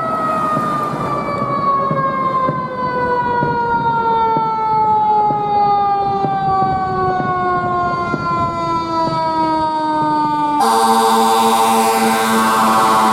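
Fire engine siren with its pitch falling slowly and steadily as it winds down, cut off about ten and a half seconds in by a loud, rough blast of air horns that holds to the end.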